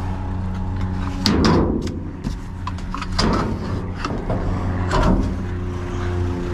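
Truck engine running steadily at idle, with three sharp bangs about two seconds apart.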